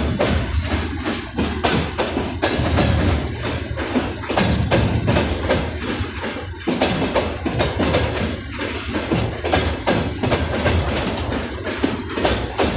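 Wagons of a train hauled by a 2ES4K "Donchak" electric freight locomotive rolling past, their wheels clacking rapidly and steadily over the rail joints over a low rumble.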